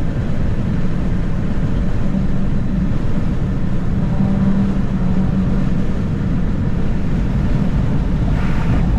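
Steady road and engine noise inside a moving car's cabin: a low rumble with a faint hum, and a brief hiss near the end.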